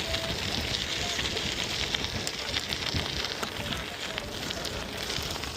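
Steady rushing noise, full of scattered crackling clicks, of a bicycle rolling along a rough path: tyres crunching over grit and debris.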